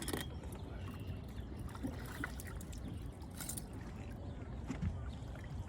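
Water trickling and splashing around a small fishing boat, with a few light knocks and a low steady rumble underneath.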